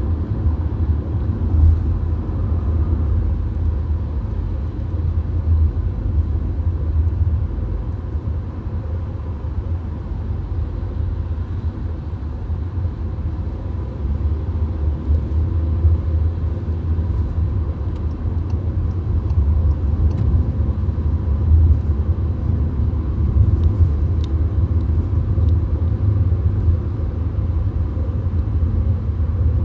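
Steady low road and engine rumble inside a VW Golf at highway speed.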